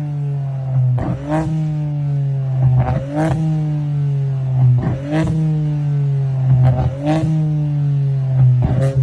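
VW Polo's petrol engine blipped about every two seconds, with a pair of sharp exhaust pops from a flamer kit on each blip as the revs fall slowly away.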